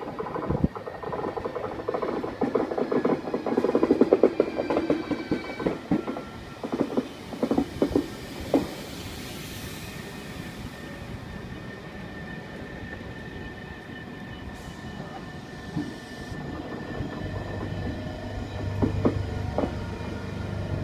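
Italo AGV high-speed electric train rolling slowly past along the platform. Its wheels clatter over rail joints and points, with high brake or wheel squeal through the first half. After that comes a steadier, quieter rumble, and a low hum sets in near the end.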